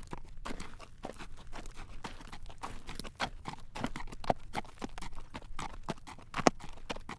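A horse's hooves clip-clopping on a road at a walk while it draws a carriage, with a string of clacks and a couple of sharper, louder strikes about four and six and a half seconds in.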